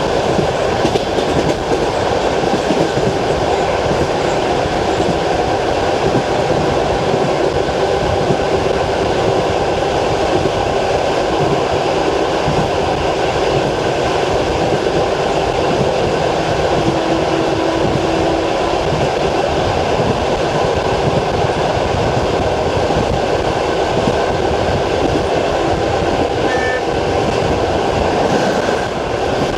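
Passenger train carriage running over jointed rail track, heard from inside: the steady clickety-clack of the wheels over the rail joints over a continuous rumble.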